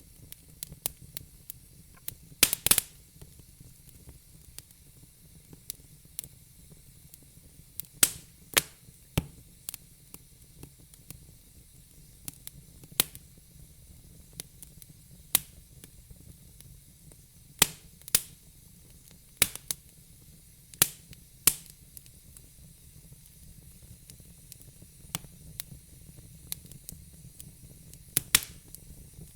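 Wood fire in a fire pit crackling: irregular sharp pops and snaps, some much louder than others, over a soft steady hiss.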